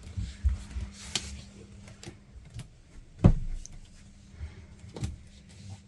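A few sharp knocks and clunks indoors, the loudest about three seconds in, over a low rumble of movement and handling.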